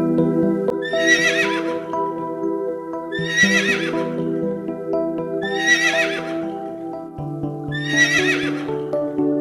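A horse whinnying four times at even intervals, each call about a second long and quavering, over soft background music.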